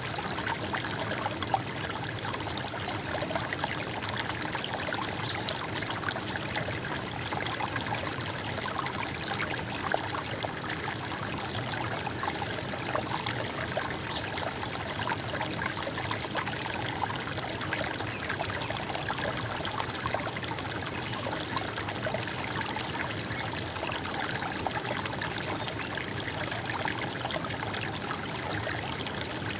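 Running water gurgling and trickling steadily, like a small stream.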